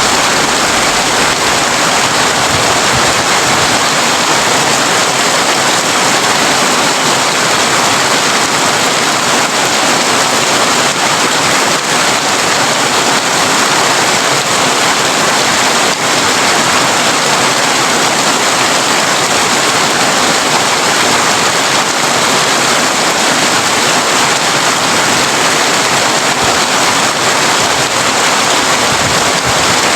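Heavy rain drumming steadily on a tin roof, a loud, even hiss without breaks.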